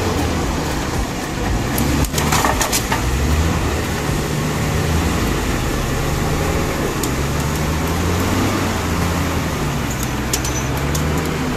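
Off-road vehicle engine running under load at low revs, its pitch rising and falling with the throttle. A few sharp knocks come about two seconds in and again near the end.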